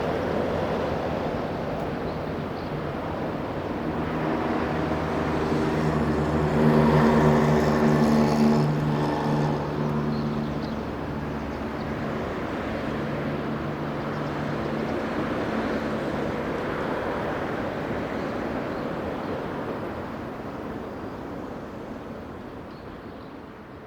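A motor engine droning steadily over a background hiss, growing louder to a peak about seven seconds in and then fading away as it passes.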